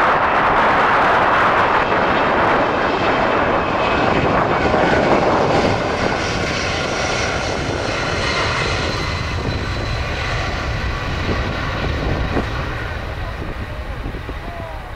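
An airliner's engines passing and moving away: a loud rushing noise that fades gradually, with a faint whining tone showing through in the second half.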